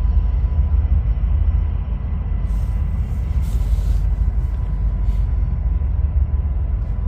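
Loaded coal train rolling past, a steady low rumble of its cars on the rails, with a few short higher hisses about two and a half to four seconds in.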